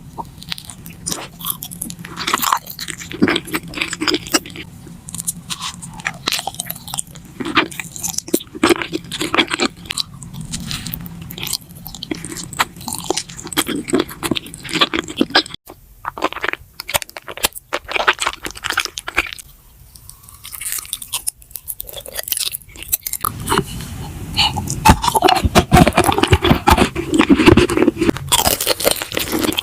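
Close-miked eating: crisp crunching bites and chewing in quick irregular clicks. It quiets down for several seconds in the middle, then turns louder and denser near the end.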